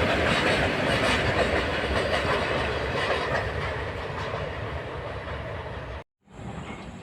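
Indian Railways train passing, its wheels clattering over the rail joints, growing fainter as it moves away. The sound cuts off abruptly about six seconds in, and a quieter train sound follows.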